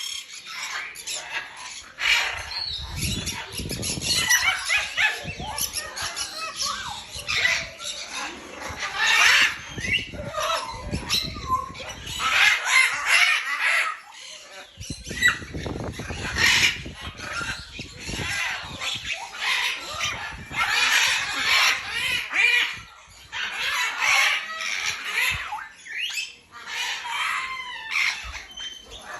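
Many birds squawking and calling over one another in a dense, continuous chorus.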